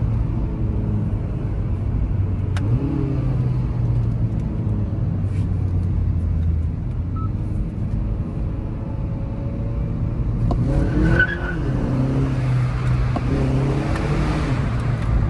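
Car engine running at low revs in sport mode, its pitch stepping a few times, then rising louder as it revs about ten seconds in.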